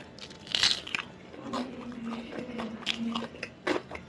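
A person eating close to the microphone: chewing with a series of crisp crunching bites, the loudest cluster about half a second in.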